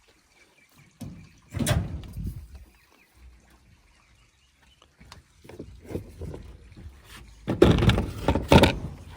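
Knocks, thumps and scraping as a piece of the boat's storage fittings is handled and set in place, with one burst of knocking about a second and a half in and the loudest thumps near the end.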